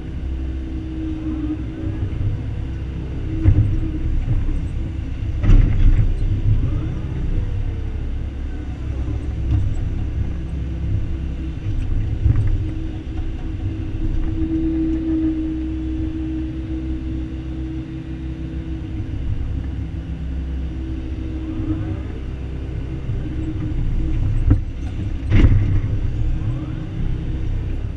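Excavator's diesel engine running steadily under load while digging, with a few sharp knocks, the loudest near the end.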